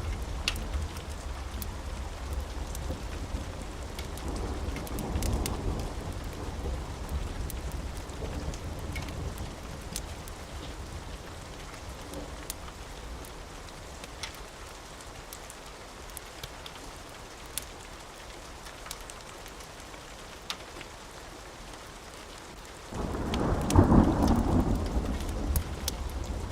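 Steady rain with scattered sharp ticks of drops. A low roll of thunder swells about five seconds in and fades. Near the end a much louder thunderclap breaks in suddenly and rumbles on.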